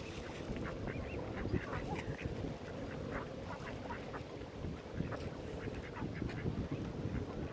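Mallard ducks quacking, many short calls coming thick and fast, over a steady low rumble.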